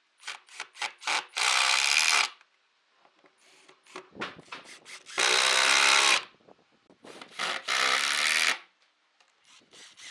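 Handheld power tool run in short trigger bursts: a few quick blips, then a steady run of about a second, three times over.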